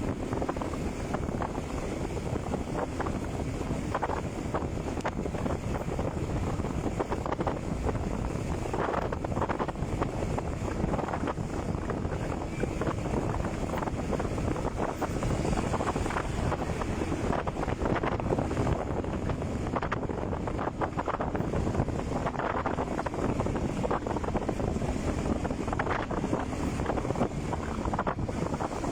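Wind buffeting the microphone on a moving motorcycle, a steady rushing rumble over the engine and road noise.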